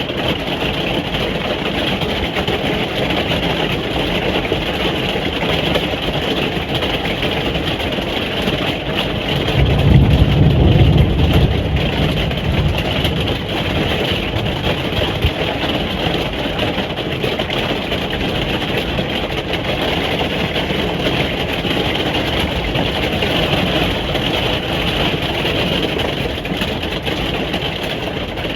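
Steady rain pattering on a caravan roof, heard from inside the caravan as a dense, even patter. About ten seconds in, a low rumble swells for roughly three seconds, then fades back into the rain.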